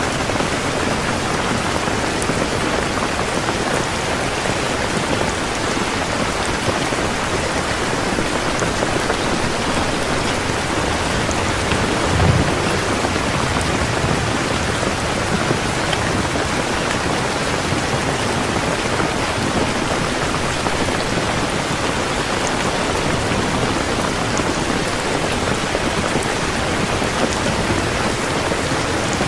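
Heavy rain falling steadily, an even hiss of drops, with one brief low thump about twelve seconds in.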